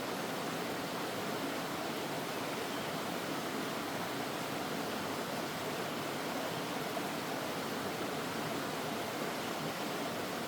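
Mountain stream rushing steadily over rocks, a constant even rush of water.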